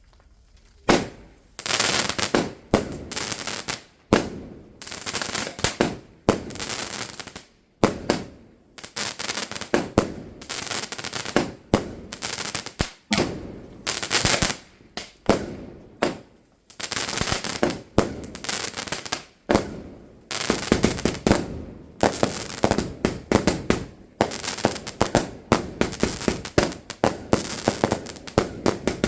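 Fireworks going off in a long, rapid barrage of bangs and crackling bursts, starting about a second in and keeping on without a real pause.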